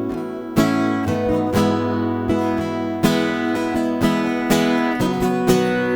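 Acoustic guitar strummed in a steady rhythm, without singing, in an instrumental break of a slow worship song.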